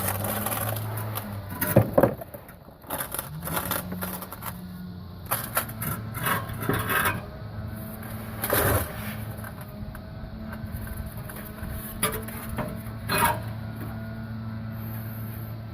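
Metal clanks, knocks and scraping from exhaust parts being worked onto greased rubber hangers under a car. The loudest knocks come about two seconds in and again near nine seconds, over a steady low hum.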